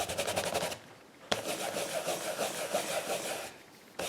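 A rubber stamp scrubbed rapidly back and forth on the dry side of a Stampin' Scrub pad to dry it after cleaning, in three bursts of quick rubbing strokes.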